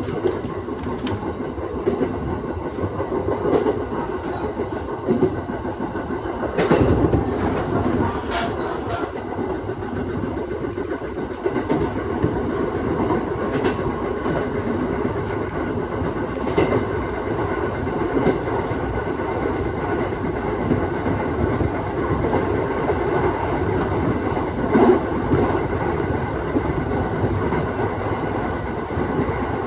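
Aoimori Railway 701 series electric train running along the line, heard from on board: a steady running rumble with wheels clicking over rail joints now and then, most sharply about 7 and 25 seconds in.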